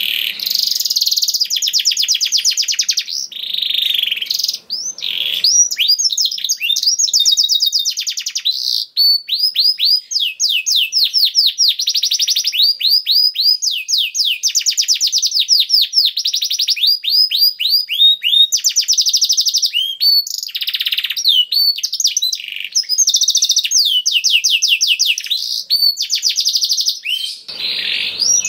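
Domestic canary singing a long, continuous song of rapid trills, each a fast run of repeated downward-sweeping notes, switching to a new trill every second or two.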